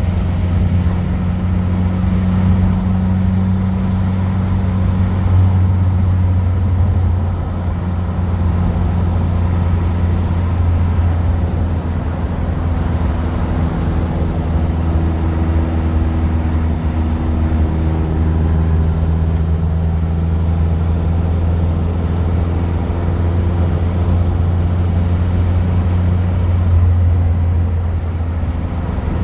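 Triumph Stag's V8 engine and road noise heard from inside the cabin while driving, a steady engine note that shifts in pitch a few times as the speed changes.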